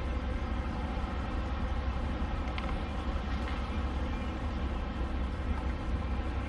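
Semi-truck diesel engine running steadily at low revs, a constant low rumble, as the tractor-trailer backs slowly; a couple of faint clicks about halfway through.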